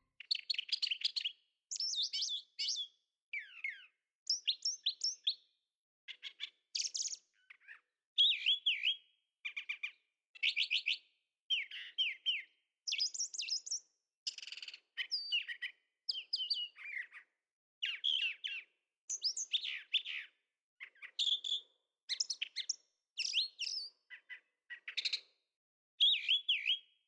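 A songbird singing a long series of short, varied, warbling and whistled phrases, roughly one a second, with silence between them.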